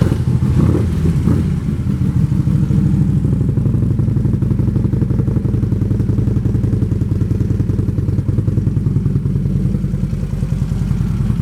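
2013 Harley-Davidson Electra Glide Ultra Classic's V-twin idling steadily through aftermarket Vance & Hines exhaust pipes.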